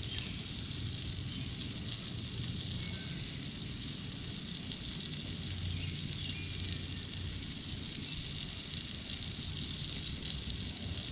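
Butterflied chicken breast frying in hot bacon grease in a cast iron skillet: a steady sizzle.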